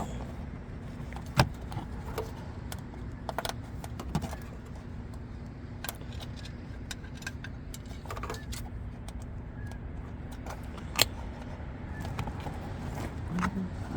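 Scattered sharp clicks and knocks of plastic and metal parts being handled while a zip tie is threaded through mounting holes, the loudest about a second and a half in and again near the end, over a steady low hum.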